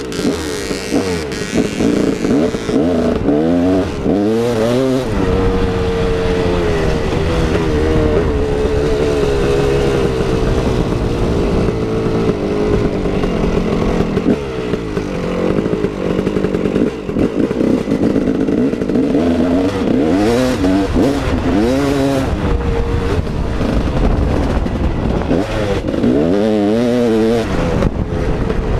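KTM 380 EXC two-stroke dirt bike engine being ridden hard, its pitch climbing and dropping sharply several times as the throttle is opened and closed.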